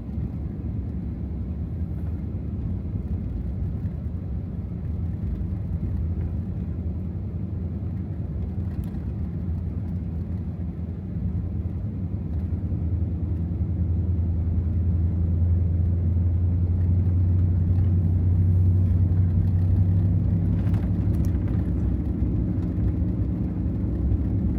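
2024 Ram TRX's supercharged 6.2-litre V8 running low and steady as the truck drives, heard from inside the cab. The engine drone gets louder about halfway through and then holds.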